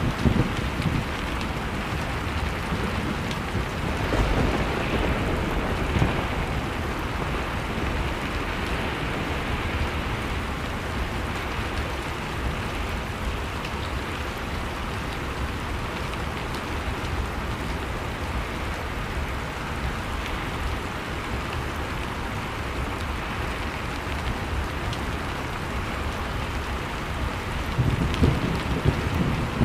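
Blizzard wind blowing steadily over a crackling wood fire, with low gusts of rumble near the start and again near the end.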